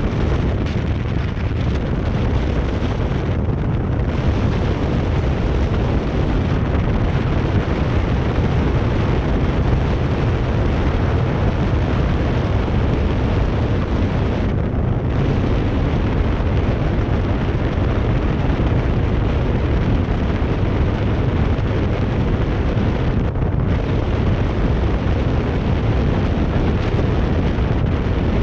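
Loud, steady wind noise buffeting a camera's built-in microphone at riding speed, deepest at the low end. The upper hiss thins out briefly three times.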